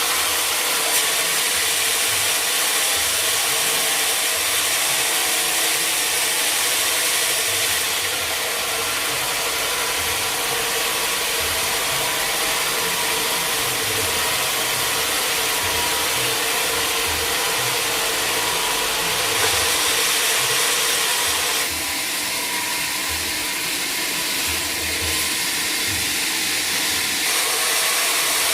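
Sawmill saw running and cutting mahogany wood: a loud, steady, harsh machine noise that shifts in level a few times.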